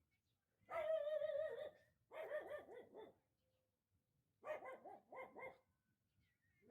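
A dog whining and yelping: one long wavering whine about a second in, then two groups of shorter broken cries.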